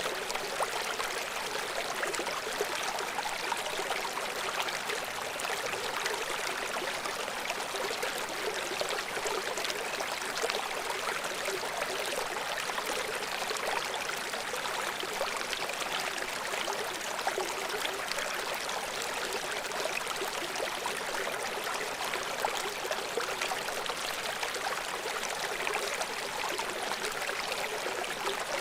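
River water flowing in a steady, even rush, mostly light and hissy with little deep rumble.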